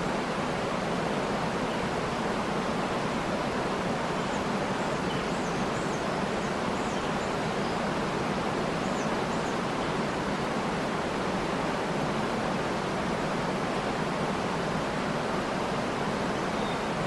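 Waterfall running steadily, an even rushing of falling water. A few faint high bird chirps come through in the middle.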